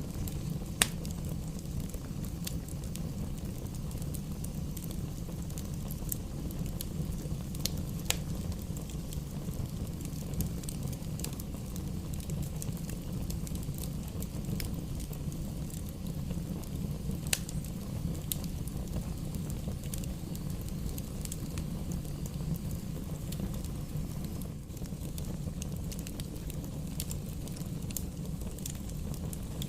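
Fire in a fireplace crackling, with scattered sharp pops (the loudest about a second in) over a steady low rumble.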